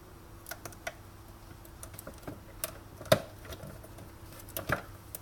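Irregular small clicks and taps of a screwdriver and loose parts being handled while an espresso machine is taken apart, with a sharper knock about three seconds in and another near the end.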